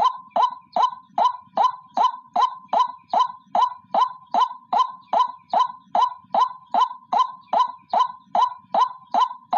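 White-breasted waterhen (ruak-ruak) calling, a single bird repeating one short note evenly, about two and a half times a second, as used for a lure call.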